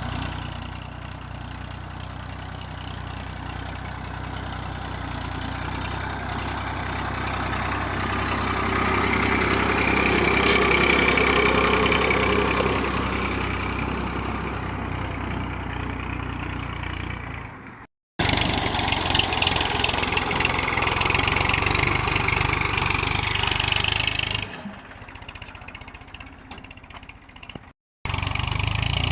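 Massey Ferguson 1035 DI tractor's three-cylinder diesel engine running steadily, growing louder midway. The sound cuts out abruptly twice, with a quieter stretch just before the second cut.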